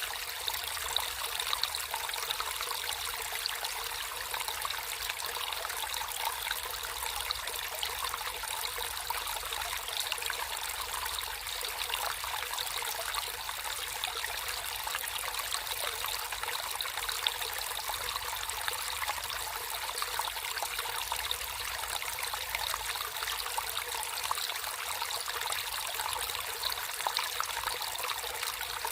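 Water running steadily over stones in a small stream, a continuous trickling and splashing.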